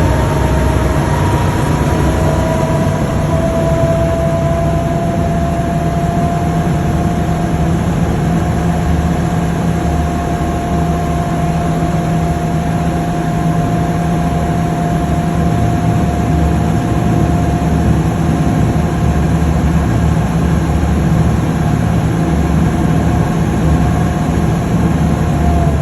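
Engine of an amphibious Duck tour vehicle running steadily on the river: a constant low drone with a thin whine that settles to an even pitch in the first seconds.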